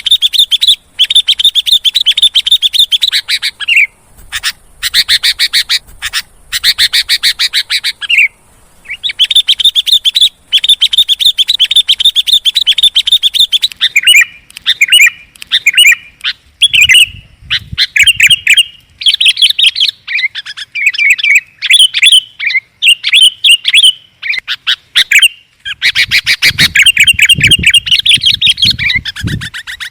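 Bulbuls (sooty-headed and yellow-vented bulbul) in agitated, noisy chattering, played as a bird-lure call: loud, rapid trains of high chirps in bouts of a few seconds with short breaks. From about halfway the calls become choppier and more varied.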